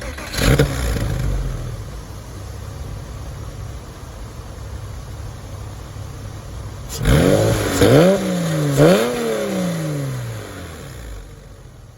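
Porsche 996 911's 3.4-litre M96 flat-six, breathing through long-tube stainless headers and modified mufflers, catches and flares just after the start, then settles to a steady idle. About 7 s in it is blipped three times in quick succession, each rev rising sharply and falling back, before dropping back to idle near the end.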